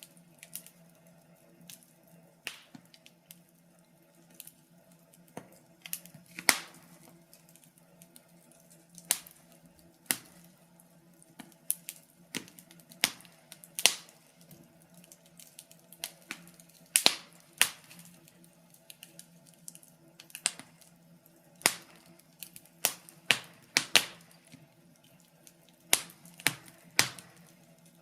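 Wood fire crackling in a fireplace: irregular sharp pops and snaps, several each second at uneven intervals, over a faint steady low hum.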